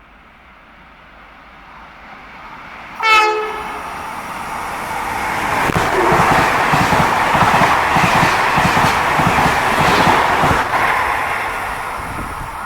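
A train approaches and gives a short horn blast about three seconds in, then runs through the station, its wheels rumbling and clicking over the rail joints, fading near the end.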